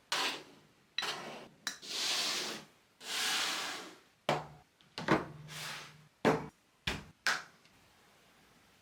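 A run of short rustles and sharp knocks from things being handled, ending about seven and a half seconds in.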